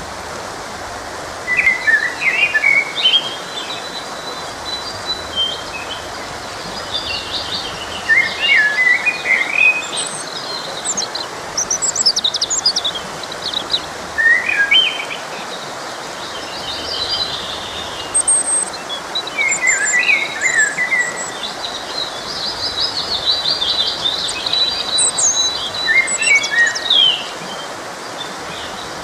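Songbirds singing in short, quick chirping phrases every few seconds over the steady rush of a forest stream.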